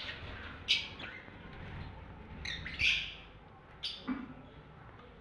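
A bird giving short, high calls, about five of them spaced irregularly, the loudest about three seconds in.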